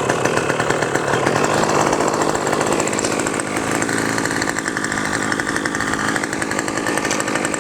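Two-stroke glow (nitro) engine of an RC model airplane running steadily with a high buzzing whine, its pitch sagging slightly midway and then recovering.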